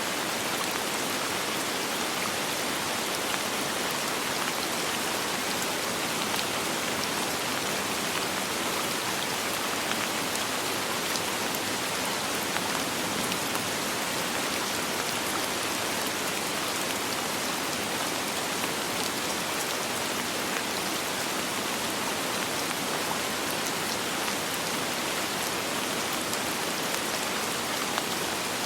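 Steady soft rainfall: an even hiss of rain on surfaces with many small drop ticks, without thunder.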